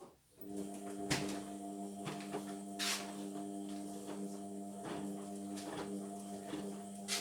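Indesit washing machine's drum motor starting up about half a second in and running with a steady hum as the drum turns during the wash, with sharp clicks now and then.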